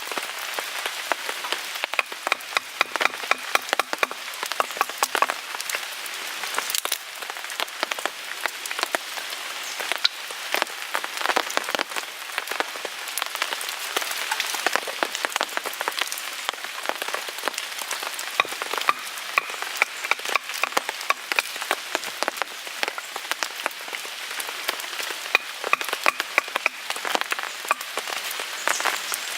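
Steady rain falling on a tarp, a dense patter of drops, mixed with the sharp crackle and pops of a wood fire burning in a Picogrill 398 fire pit.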